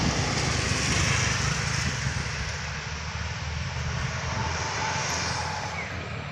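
Heavy road vehicle engine running steadily with tyre and road noise as it passes, easing off slightly midway.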